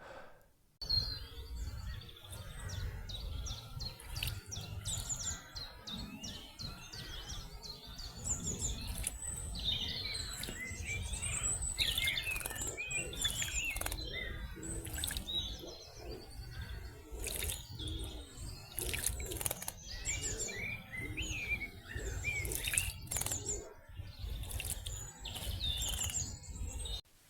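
Outdoor garden birdsong, several birds chirping and trilling over one another above a steady low rumble, with a few sharp clicks. It starts and stops abruptly.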